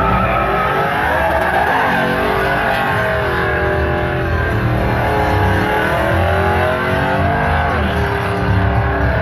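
Music with a bass line, over a truck engine revving up and down in long sweeps as it spins donuts.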